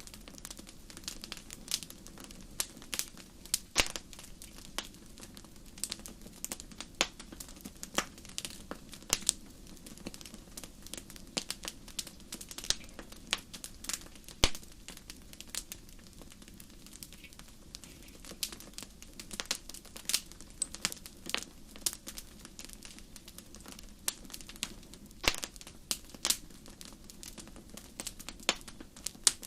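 Wood fire crackling: irregular sharp pops and snaps, several a second and some louder than others, over a steady low background of burning.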